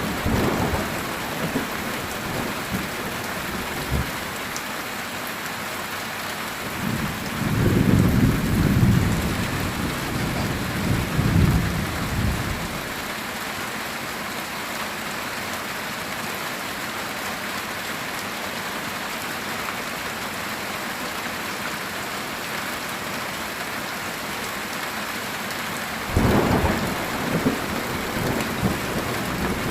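Heavy rain falling steadily on a metal roof, with rolls of thunder rumbling low: a long roll about a quarter of the way in, and another near the end.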